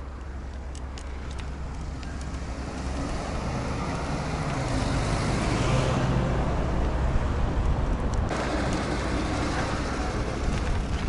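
Road traffic: a motor vehicle passes close by over a steady low rumble, its engine and tyre noise swelling to a peak about six seconds in and then falling away.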